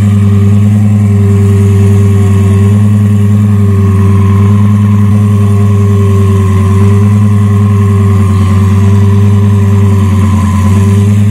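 A car engine idling close by, loud and steady, with a deep, even drone that begins suddenly.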